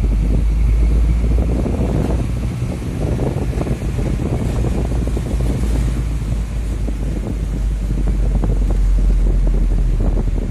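Diesel engine of a UD Nissan Quester truck running steadily: a deep, continuous rumble, with wind buffeting the microphone.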